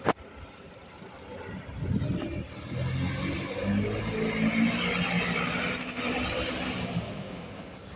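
A sharp click right at the start, then a diesel city bus running past: its engine sound builds from about two seconds in, holds, and fades away near the end.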